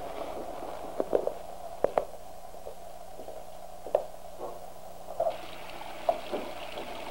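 Scattered short knocks and thumps over a steady hum, then a bathroom tap running into a sink from about five seconds in.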